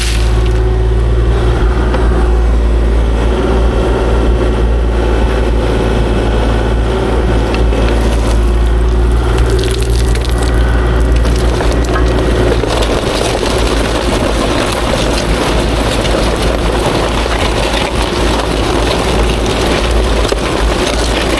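Kubota KX040-4 mini excavator's diesel engine running steadily under working load, with crunching of rock. Its low drone eases somewhat about halfway through.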